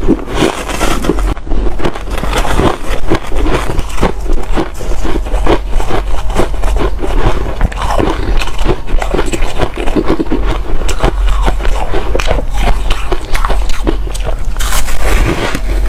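A person chewing ice close to the microphone: continuous loud crunching and cracking as the ice is bitten and ground between the teeth.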